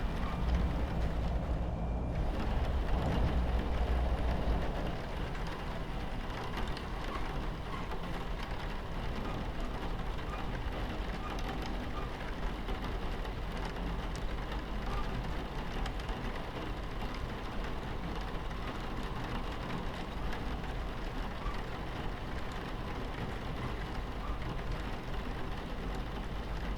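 Steady low rumble of a moving train heard from inside the carriage, with rain pattering on the window. The rumble is louder for the first few seconds, then settles.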